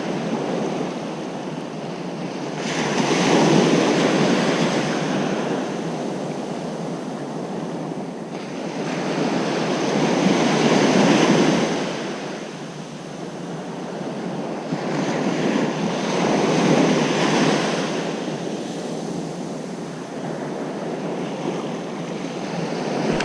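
Ocean surf washing onto a beach: a steady rush of water that swells into a louder breaking wave about every six to seven seconds, then ebbs.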